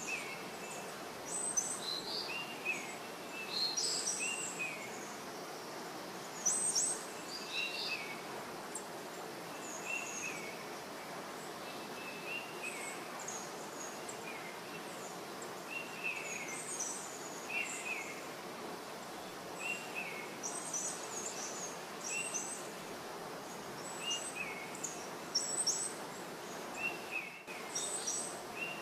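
Birds chirping: a short rising-and-falling call repeated every second or two, with higher chirps among them, over a steady background hum.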